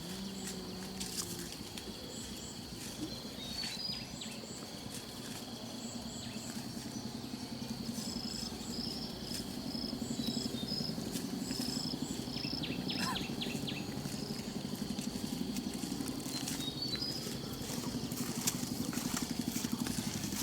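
Outdoor ambience of birds chirping in short groups of high pips, over a steady low hum that grows a little louder toward the end.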